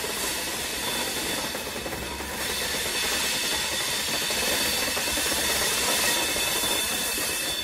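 Passenger train running slowly, heard from an open door or window of its coach: a steady rushing of wheels on the rails with a faint steady high whine above it.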